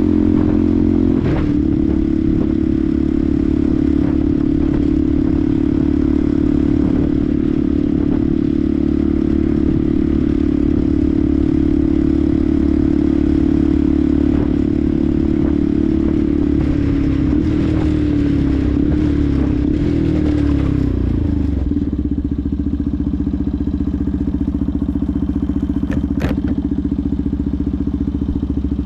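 Benelli TNT 125's single-cylinder four-stroke engine running at a steady speed. About two-thirds of the way through, the engine note falls as the bike slows, then settles into a steady lower note near idle. One sharp click comes near the end.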